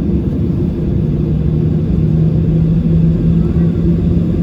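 Boeing 737-800's CFM56-7B jet engines heard from inside the passenger cabin: a steady low rumble with a steady hum in it.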